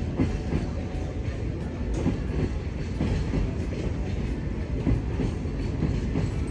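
Sagano Romantic Train (Sagano Scenic Railway sightseeing train) running along the track: a steady low rumble of the carriages with the wheels clicking over the rails.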